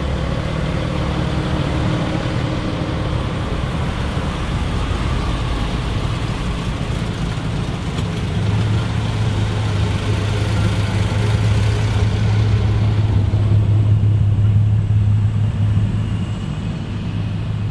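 Classic car engine running, a continuous low rumble; a steady deeper hum grows louder from about halfway through and eases off near the end.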